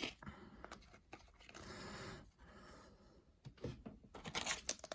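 Soft rustling and clicking of trading cards and a foil card-pack wrapper being handled, the crinkling growing louder near the end.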